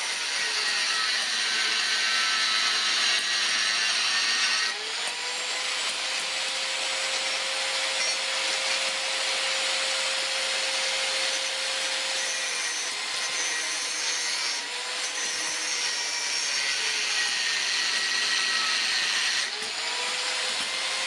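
Electric power tool running steadily against metal, with its pitch shifting about five seconds in and again near the end.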